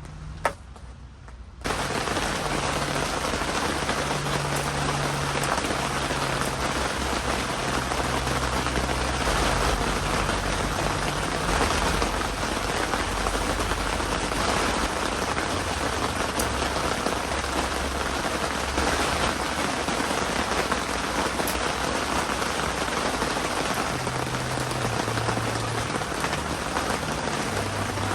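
Heavy typhoon rain falling steadily, a dense even hiss that starts abruptly about two seconds in, just after a single sharp click.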